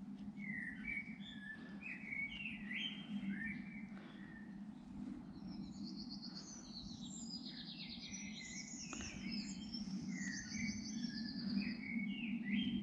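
Bird chirping and singing: repeated short gliding chirps, with fast high trills through the middle, over a steady low hum.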